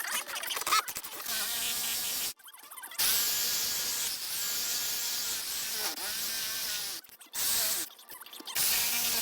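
Jigsaw cutting through deck boards in several runs of a few seconds each, with its motor buzz stopping and restarting between cuts; the longest run lasts about four seconds.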